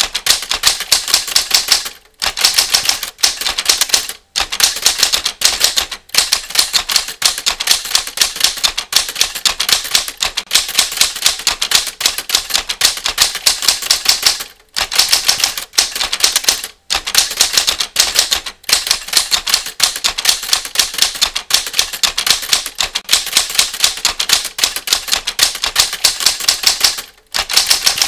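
Mechanical typewriter keys clacking in fast, continuous typing, broken by a few brief pauses.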